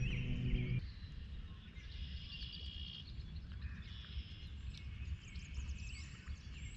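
Several songbirds calling and trilling in short repeated phrases over a low steady rumble. Background music cuts off under a second in.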